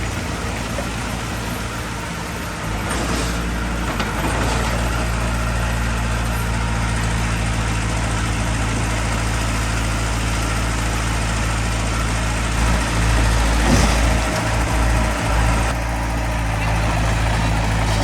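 Heavy diesel construction machinery running steadily, a low engine hum with a brief swell in level about two-thirds of the way through.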